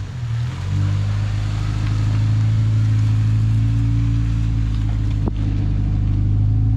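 Toyota Corolla rally car's engine settling from a rev into a steady idle about a second in, with a single sharp click about five seconds in.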